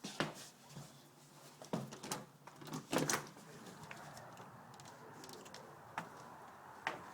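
A door being opened and closed: a series of knocks and clunks, the loudest about three seconds in, then a steady faint hiss from about halfway in.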